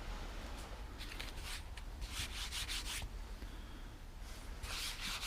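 Faint rustling and rubbing of things being handled, in three short spells: about a second in, around two to three seconds in, and near the end.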